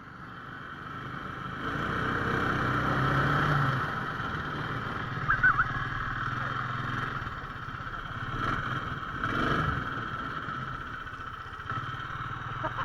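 Motorized snow sled's 17 hp Lifan engine running under way. It gets louder over the first few seconds, then runs steadily.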